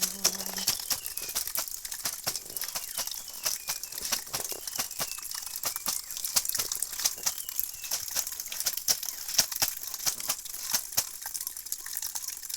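Dense, irregular crackling and rustling, made of many small sharp clicks.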